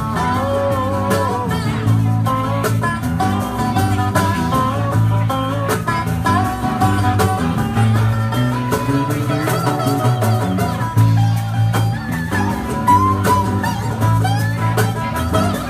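Live rock band playing an instrumental passage: a lead guitar line with bending, sliding notes over bass and steady drums.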